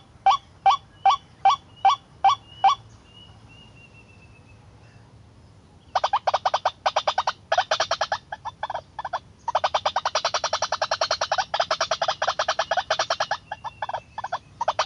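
White-breasted waterhen calling: loud repeated calls at about three a second that stop near the three-second mark, then after a pause a faster, denser run of pulsed calls from about six seconds in, with a short break in the middle. A faint thin whistle sounds during the pause.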